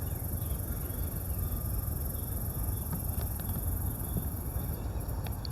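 A steady high-pitched insect drone over a low, even rumble; the insect drone stops near the end.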